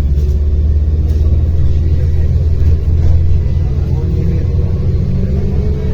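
Diesel engine of a MAZ-105 city bus running as the bus drives, heard from inside the passenger cabin: a steady low drone, its pitch edging up near the end.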